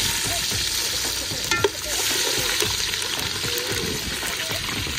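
Chicken frying in a pot with a steady sizzle as it is stirred, with a short metallic clink about a second and a half in.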